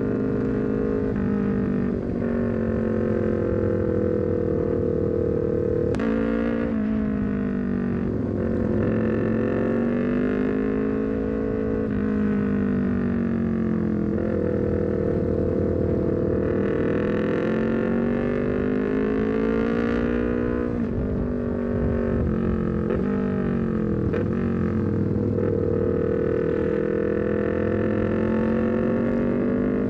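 Honda CBR250RR parallel-twin engine through a full aftermarket exhaust (R9 header, Leovince GP Corsa carbon silencer), under way at part throttle. The engine note swells and eases smoothly as the revs rise and fall, with a few quick breaks in the note.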